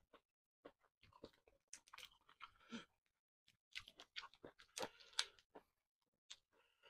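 Close-miked chewing and wet mouth sounds of a person eating fried chicken covered in chili sambal, with crackling as the chicken is pulled apart by hand. The sounds come in two clusters, about one to three seconds in and about four to five and a half seconds in, with a short pause between.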